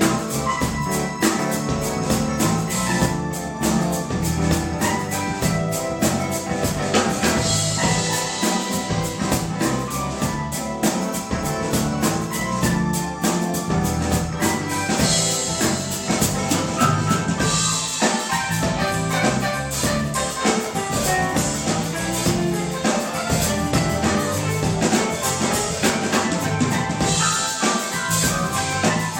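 A live pop band plays an instrumental passage with no singing. A drum kit keeps a steady beat under the other instruments.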